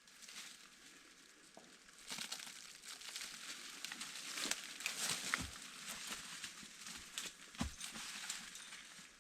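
Dry rustling and crackling, dense with small clicks, that grows louder about two seconds in, with a couple of dull thuds near the end.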